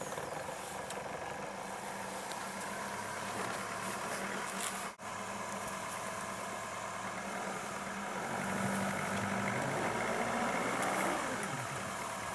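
Chrysler PT Cruiser's engine running under throttle as the car tries to drive out of deep snow. It grows louder and higher from about eight seconds in, then falls away about three seconds later as the car stays stuck.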